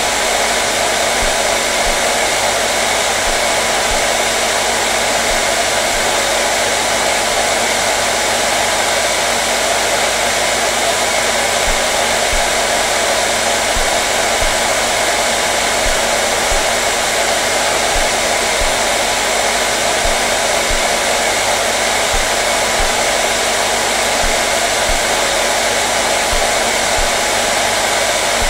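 Hair dryer running steadily: a constant airy rush with a faint steady hum beneath it.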